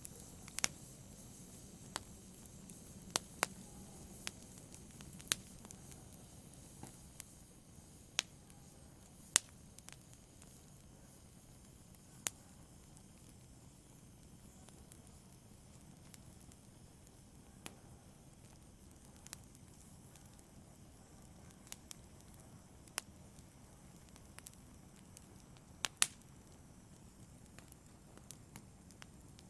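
Wood fire burning in a fireplace: a low steady hiss with scattered sharp crackles and pops at uneven intervals, more of them in the first few seconds.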